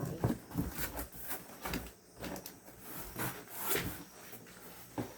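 Irregular rustling, scraping and knocking handling noises, with no engine running.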